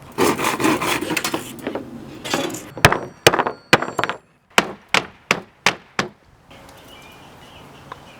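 Handwork on a wooden hammer handle: a rough rushing scrape for the first two seconds or so, then a run of about nine sharp wooden knocks, two or three a second.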